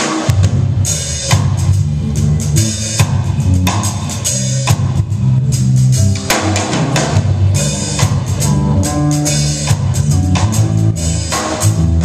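Live rock band playing an instrumental intro, with drum kit (bass drum and snare) and electric bass and guitar, echoing in a large hall.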